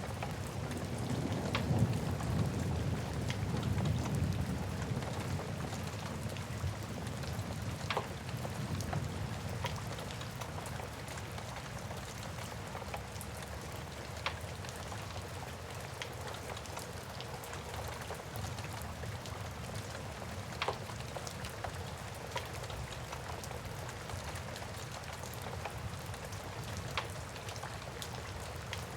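Steady rain with a low rumble of thunder over the first few seconds that fades away. A few sharp pops from a crackling wood fire come every several seconds.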